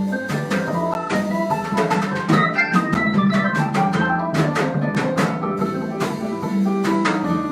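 Live Brazilian jazz band playing an instrumental passage: quick plucked-string notes over a bass line, with drum-kit strokes keeping a steady beat.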